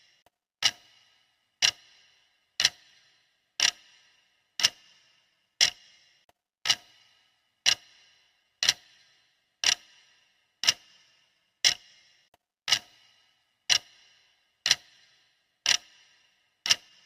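Clock ticking sound of a countdown timer: one sharp tick each second, each with a brief ringing tail, in a steady even rhythm.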